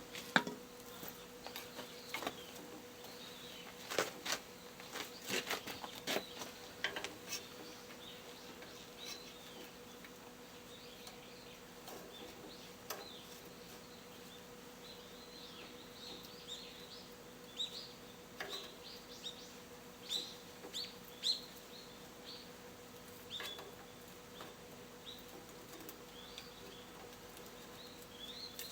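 Scattered light metallic clicks and clinks of tools and tractor axle parts being handled, busiest about four to seven seconds in, over a faint steady hum, with short high ticks or chirps later on.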